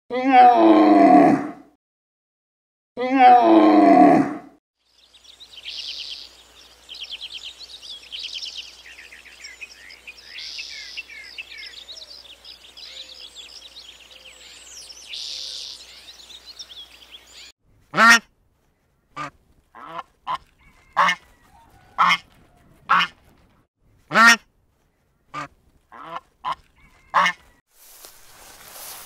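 A sequence of animal calls: two loud, drawn-out calls in the first few seconds, then faint high twittering of small birds, then a run of about ten short, sharp calls from about eighteen seconds in.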